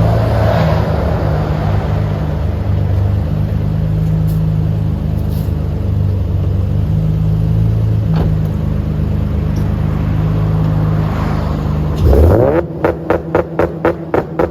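Nissan 350Z's 3.5-litre V6 through a Fast Intentions exhaust, running steadily, then revving sharply near the end and stuttering in quick regular cuts, about four a second, as it bounces off the launch-control rev limit.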